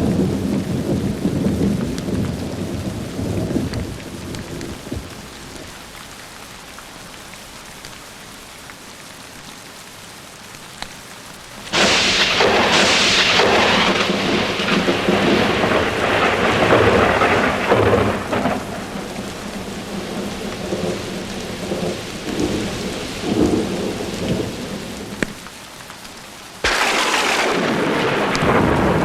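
Steady rain under a thunderstorm. A rumble of thunder dies away over the first few seconds, leaving the rain hiss. About twelve seconds in, a sudden sharp thunderclap breaks into a long rolling rumble that lasts around ten seconds, and another sudden clap strikes near the end.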